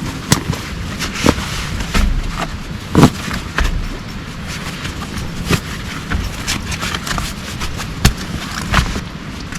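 Heavy rain falling steadily, with large drops striking hard and irregularly close by, each hit a sharp knock, the loudest about three seconds in and again near the eight-second mark.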